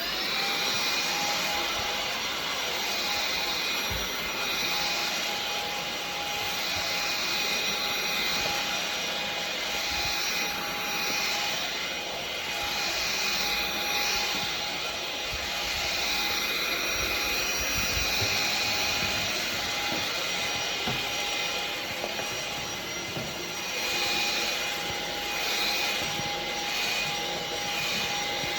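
Roborock H7 cordless stick vacuum, fitted with its mop attachment, switched on and running with a steady high whine over a hiss. The tone wavers a little as it is worked across the floor.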